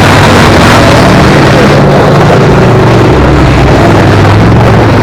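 Race car engines running and revving, very loud.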